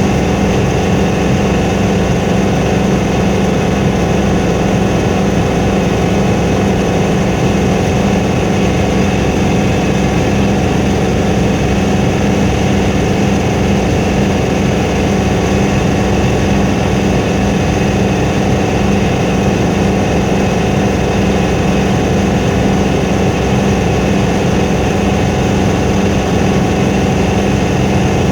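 Helicopter engine and rotor running at a steady, loud, unchanging drone.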